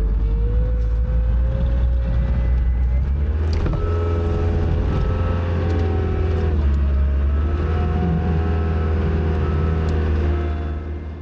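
Skid steer loader's engine running steadily under load while plowing snow, its pitch dipping and rising as the load changes, and dropping away near the end.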